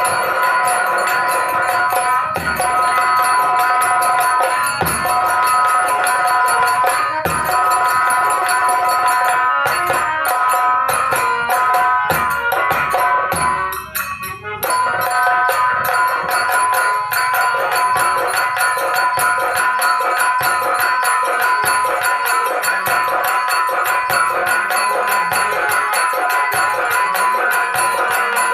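Ahirauwa folk dance music: nagada drums beating steadily under jingling percussion and steady held melody notes, with a brief drop in level about halfway through.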